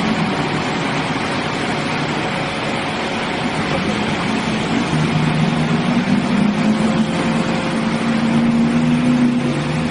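Heavy truck engine running under a noisy rumble, with a steady engine note that comes in about halfway through.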